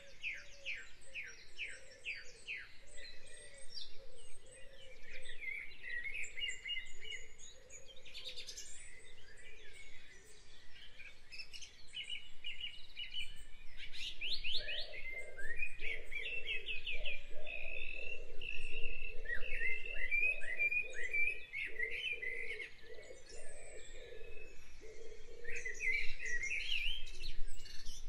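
Birdsong: several small birds chirping and trilling over one another in rapid repeated notes, with a lower pulsing call underneath that grows stronger about halfway through.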